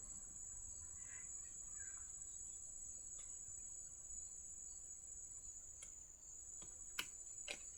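Faint steady high-pitched whine over quiet room tone, with a few light clicks near the end.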